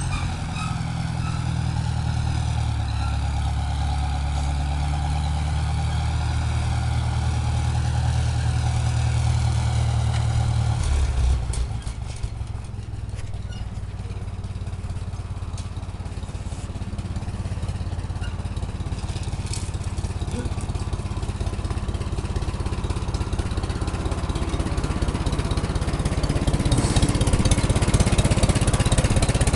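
Tractor engine running. For about eleven seconds it holds a steady, even drone. Then the tone drops away and the sound turns rougher and more rattly, growing louder near the end.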